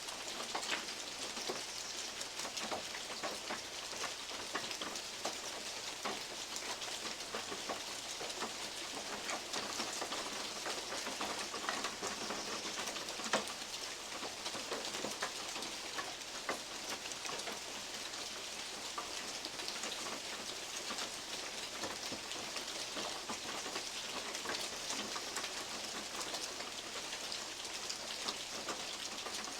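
Steady rain with many large drops falling from oak leaves and ticking on a metal roof, one sharper drop hit about 13 seconds in.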